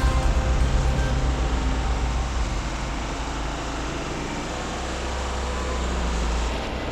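An engine running steadily with a low rumble, after louder sound fades out over the first couple of seconds.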